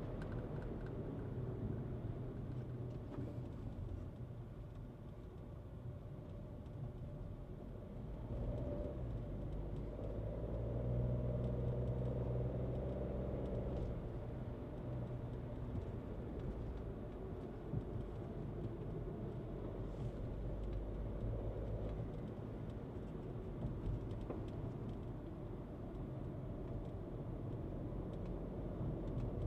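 Skoda Kushaq SUV being driven: steady engine and road rumble, with the engine note swelling louder for about five seconds midway before easing back.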